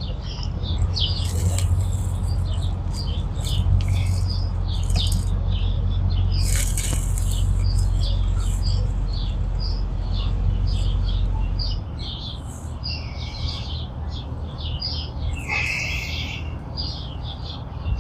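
Many small birds chirping and twittering in quick short calls, over a steady low rumble that drops off about two-thirds of the way through.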